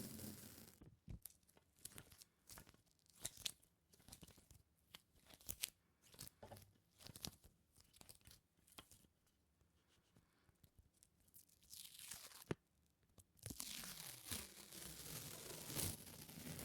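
Close-miked sticky sounds: something tacky being pulled apart and peeled in many short, separate crackles, a brief pause, then a denser, steadier crackling rustle near the end.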